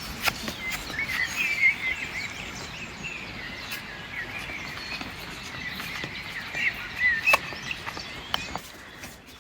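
Small birds singing and chirping in quick, wavering trills over a steady outdoor background, with a few sharp clicks.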